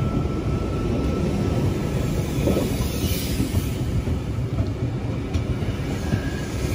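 Stainless-steel double-deck electric train running past close by at a platform: a steady rumble of wheels on the rails and carriages rolling by.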